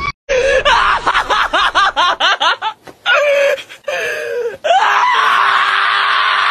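A person laughing in quick repeated bursts, then, from about five seconds in, one long, steady scream.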